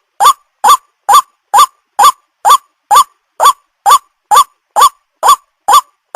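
White-breasted waterhen "ruak-ruak" call repeated as a bird-lure call: identical short rising notes about two a second, about thirteen in all, with no pause.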